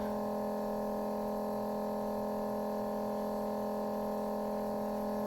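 Steady electrical hum made of several constant tones, unchanging, with no other sounds standing out.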